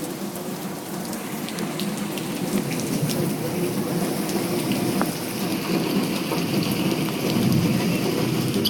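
Heavy rain pouring steadily, with drops ticking on a nearby surface; the downpour grows gradually louder.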